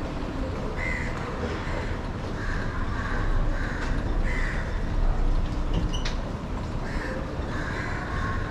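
A bird calling repeatedly: short calls come singly or in quick runs, roughly every half second to second, over a steady low rumble of background noise. A single sharp click sounds about six seconds in.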